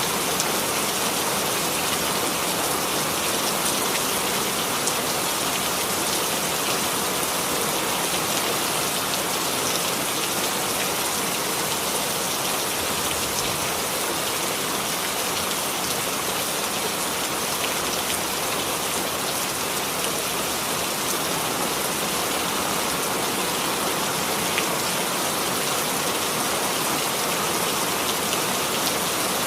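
Steady rain falling, an even hiss of many drops hitting a surface with a few sharper drop ticks.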